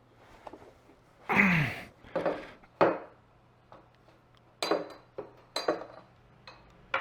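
Motorcycle fork tubes being slide-hammered apart, the inner tube knocking against the outer to drive out the old fork seal: a series of about six sharp metallic clinks and knocks, some ringing briefly.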